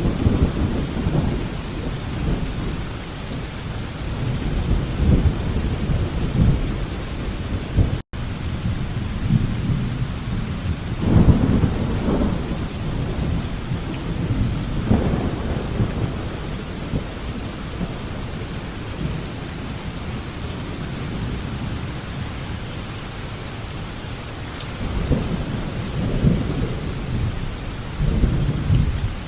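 Steady heavy rain with rolling thunder that swells and fades in deep rumbles three times. The audio drops out for an instant about eight seconds in.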